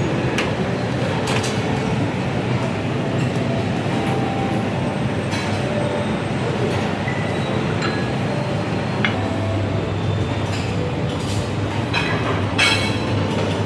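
Restaurant dining-room ambience: a steady low hum and rumble with scattered clinks of crockery and cutlery, several close together near the end.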